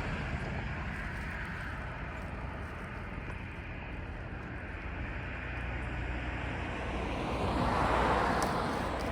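Steady low mechanical rumble of a passing vehicle, with a whoosh that swells and fades about eight seconds in as something passes close.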